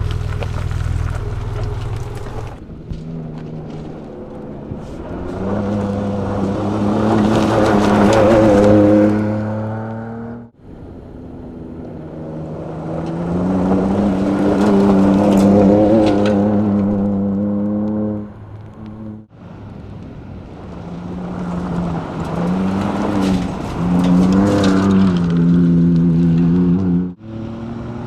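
Ford Ranger Raptor's 3.0-litre petrol V6 running under load while driving off-road, in three stretches that each build louder and then cut off abruptly.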